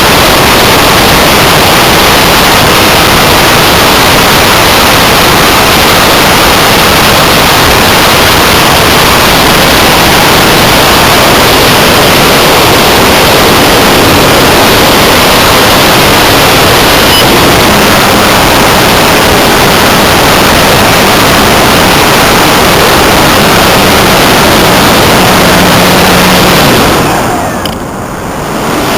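Loud, steady rushing of airflow and electric-motor and propeller noise from a Multiplex Blizzard RC model plane in flight, picked up by a small onboard camera's microphone and close to overloading it. The noise dips for about two seconds near the end.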